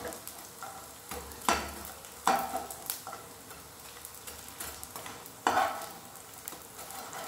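Pieces of edible gum (gond) sizzling as they fry in hot ghee in a frying pan. A perforated metal slotted spoon scrapes and knocks against the pan several times as the pieces are turned over.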